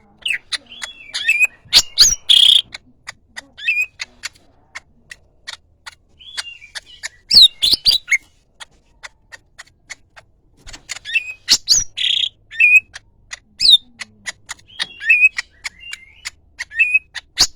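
Leafbird (cucak ijo) singing in a loud, rapid string of sharp chips and short whistled phrases, in bursts with brief pauses between them.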